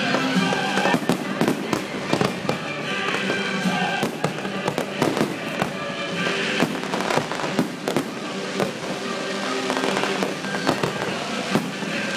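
Fireworks display: a steady run of shells bursting with sharp bangs and crackles, over music playing with the show.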